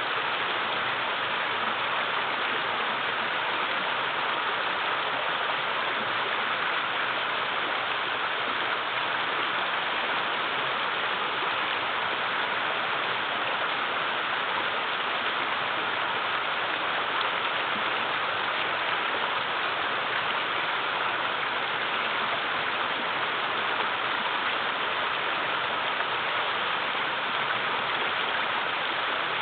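Mountain river running low over rocks and small waterfalls: a steady, even rush of water.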